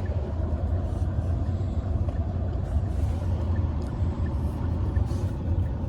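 Steady low road rumble and engine hum of a moving taxi van, heard from inside the cabin.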